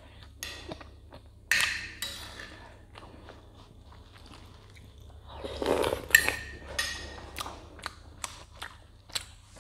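Close-miked eating sounds: a person chewing soft dudroti, flour dumplings cooked in milk, with wet mouth sounds and sharp clicks, the loudest bursts about a second and a half and about six seconds in. A steady low hum runs underneath.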